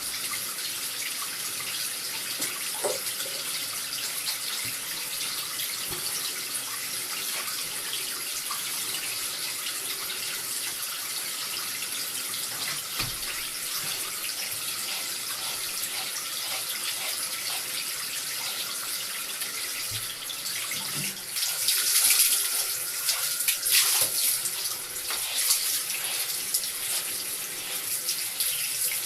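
Tap water running steadily into a bath, turning louder and splashier in the last third as the stream strikes the cat and the water.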